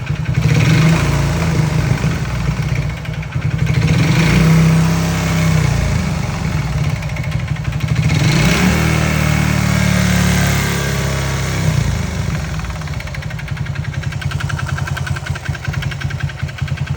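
Honda Titan single-cylinder four-stroke engine revved up and let back down three times, then idling. It carries a connecting-rod knock ('barulho de biela'), the sign of a worn rod bearing.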